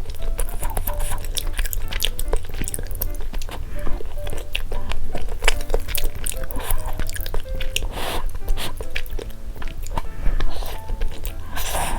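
A person chewing and biting food close to the microphone, with frequent small clicks from utensils and mouth, over light background music; two short noisy rushes come about eight and eleven and a half seconds in.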